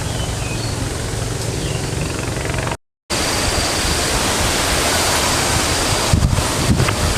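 Steady rush of wind, with heavier gusts buffeting the microphone near the end. The sound cuts out completely for a moment about three seconds in.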